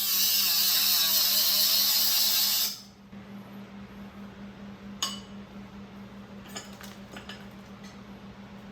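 A workshop tool runs in one loud, hissing, whirring burst and cuts off sharply under three seconds in. A sharp click follows a few seconds later, then a few light metallic clinks, over a steady low hum.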